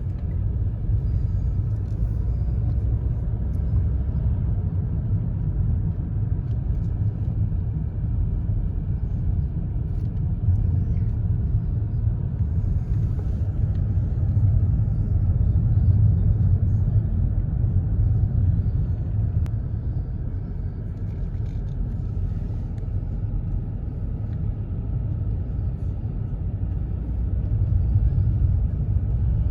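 A car driving: a steady low rumble of road and engine noise that swells and eases slightly but never stops.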